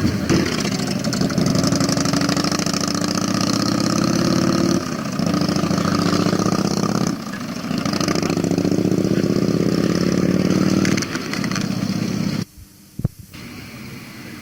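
Vintage motorcycle engines running and revving, the pitch rising steadily twice, each time for a few seconds. About twelve seconds in the sound cuts off suddenly.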